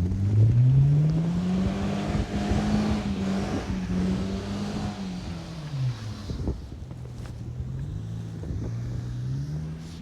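A car engine revving up over about two seconds, held high, dropping about six seconds in, then revving again more gently. Short crunching steps through snow run underneath.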